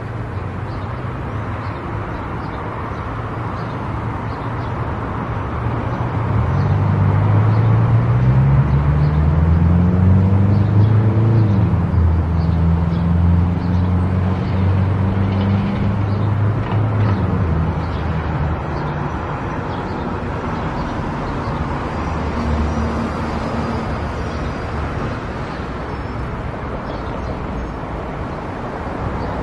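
Car driving: steady road and tyre noise, with an engine note that grows louder and climbs in pitch in steps between about six and eighteen seconds in, then fades back.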